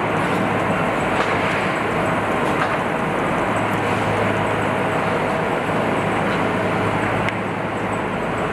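Steady mechanical noise with a low hum and a few faint light clicks.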